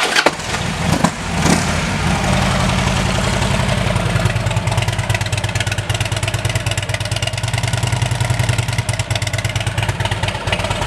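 A 2009 Harley-Davidson Electra Glide's 96-cubic-inch V-twin is started and catches unevenly for a second or two, then settles into a steady, lumpy idle through aftermarket Rinehart exhaust pipes.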